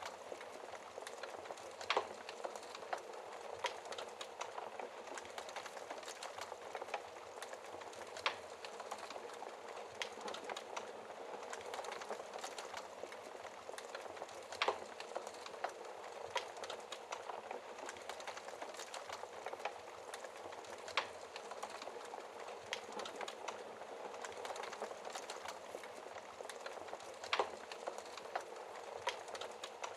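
Wood logs burning in a fireplace, crackling steadily with a dense run of small snaps. Louder pops come every six seconds or so.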